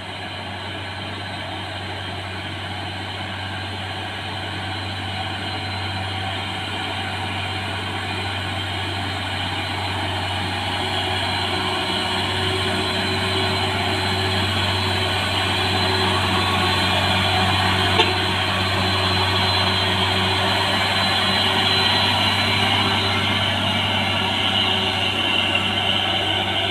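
Diesel engine of a heavy six-by-two truck pulling up a steep hill climb: a steady low drone that grows gradually louder as it comes closer. One sharp click about eighteen seconds in.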